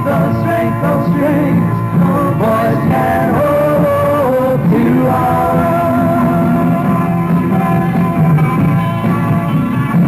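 Live 1960s rock band playing, recorded in concert: a singing voice and electric guitar lines over a steady bass.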